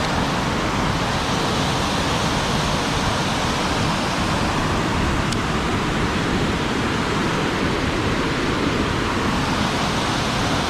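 Steady rushing of fast-flowing creek water at an even level.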